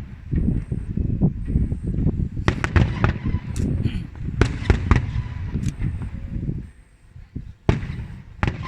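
Aerial fireworks shells bursting in quick, irregular succession, sharp bangs over a continuous low rumble; the barrage thins briefly about seven seconds in, then more bangs follow.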